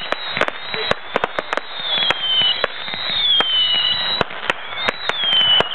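Fireworks display going off: a rapid series of bangs and crackles, with several high whistles that glide down in pitch.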